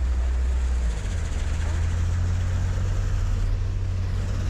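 ATV engine running steadily under way, its low drone stepping up slightly in pitch about a second in.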